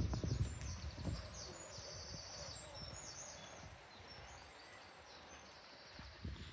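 Small birds chirping and singing, with repeated short high notes in the first few seconds over a steady outdoor hiss. A few low thumps come in the first second.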